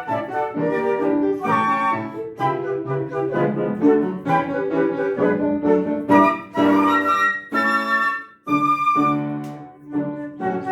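Two flutes playing a classical duet with piano accompaniment; the music breaks off briefly about eight seconds in.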